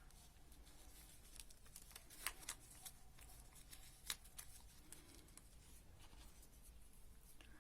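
Faint, sparse crinkles and clicks of folded origami paper being handled, against near silence.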